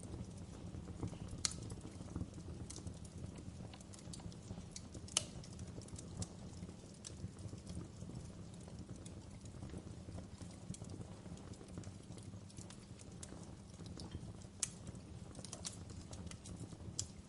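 Wood fire crackling: irregular sharp pops and snaps over a steady low rumble of burning flames. The loudest pops come about a second and a half in, about five seconds in, and near the end.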